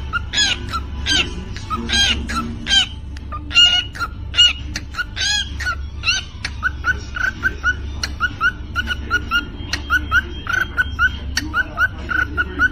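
Cockatiel vocalising: a few seconds of pitched, squawky calls, then quick short chirps repeated in a steady rhythm about two to three times a second, in the manner of a beatbox pattern. A steady low hum sits underneath.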